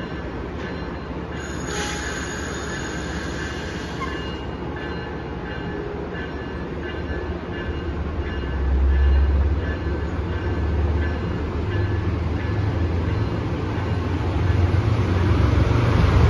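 Passenger train running on the rails: a high wheel squeal sets in about two seconds in and fades after a few seconds, over a deep rumble that grows louder toward the end as the train draws nearer.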